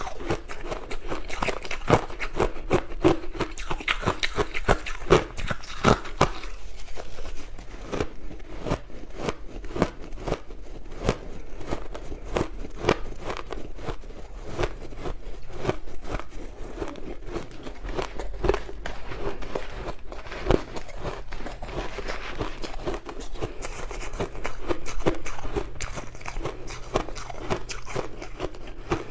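Crushed ice being bitten and chewed: a dense, continuous run of crisp crunches, sharpest and loudest in the first six seconds.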